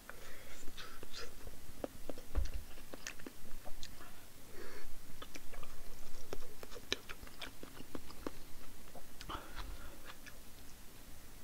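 A person chewing a mouthful of food close to the microphone, with many short wet mouth clicks throughout.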